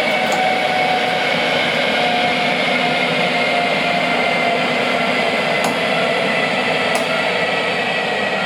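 Train wheels squealing on the rails as a train rolls past: steady rolling noise with a loud, sustained squeal of two held tones that slowly sink in pitch, and two sharp ticks near the end.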